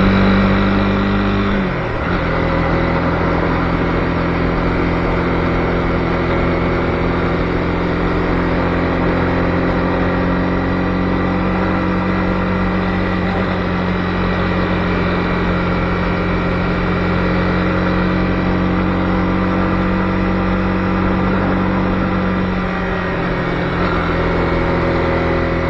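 Honda CB250R single-cylinder engine running steadily under way at a constant note. The engine note dips briefly about two seconds in and again near the end.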